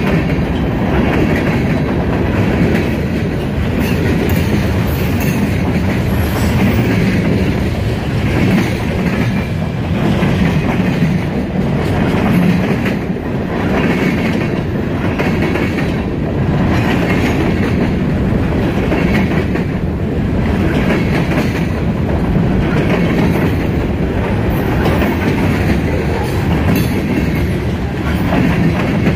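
Freight cars of a CSX mixed freight train rolling past, a steady rumble with a rhythmic clickety-clack of steel wheels over the rails.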